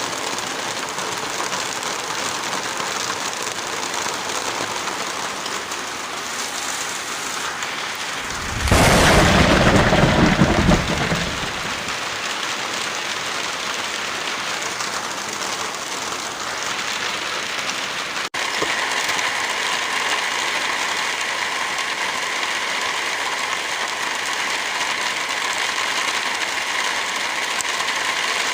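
Heavy rain falling steadily as an even hiss. About a third of the way in, a loud, deep burst of noise lasts about two and a half seconds. Past the halfway mark there is a momentary dropout, after which the rain sounds slightly different.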